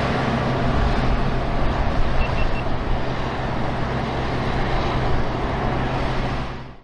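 Harvest machinery engine running steadily, a constant drone with mechanical noise, fading out at the end. Three short, faint beeps sound about two seconds in.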